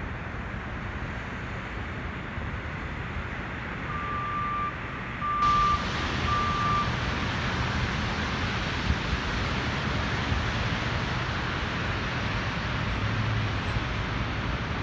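City street traffic noise, a steady rush of passing vehicles, with three short electronic beeps about four to seven seconds in.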